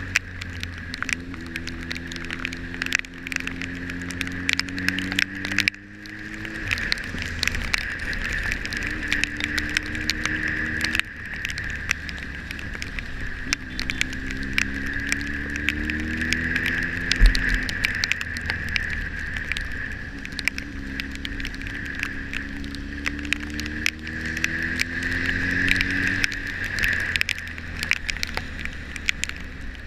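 Motorcycle engine accelerating through the gears: its pitch climbs, drops sharply at each shift, then climbs again, with the odd easing off. A steady rush of wind and road noise runs under it, with frequent sharp ticks of rain hitting the camera.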